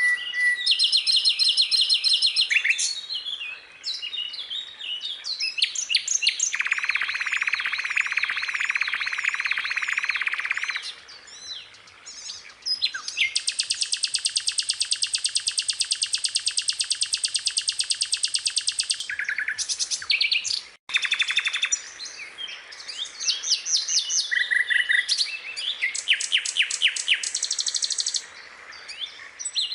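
Skylark singing a long, varied song of fast chirps and rattling trills, with one even, buzzing trill held for several seconds about halfway through. The sound breaks off for an instant about two-thirds of the way in.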